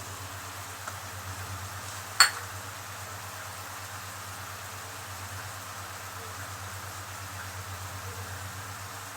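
Seafood and vegetables frying in an oiled pan, giving a steady soft sizzle, with one sharp clink of a utensil on the pan about two seconds in.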